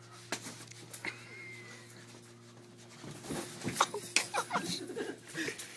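Scuffling of a play-wrestling bout with a dog: quiet with a few faint clicks at first, then from about three seconds in a burst of bumps, rustling and short dog noises.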